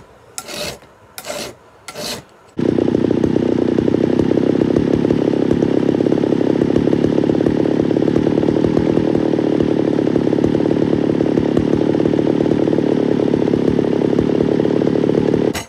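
About four rasping strokes of a file across a chainsaw chain's raker depth gauges. Then a loud, steady mechanical drone starts abruptly and cuts off just as abruptly near the end.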